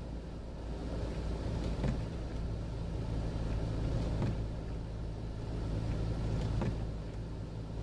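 Jeep Wrangler engine running steadily under way, a low hum heard from inside the cabin, with a few faint knocks.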